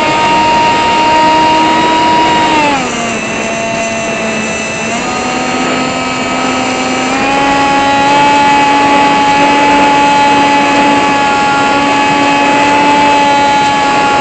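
Whine of a tiny brushless motor (RCX NK1103, 10000KV) spinning a 3-inch propeller, heard from a camera mounted on the model plane. The pitch drops about three seconds in as the throttle is eased, then rises again around seven seconds in and holds steady.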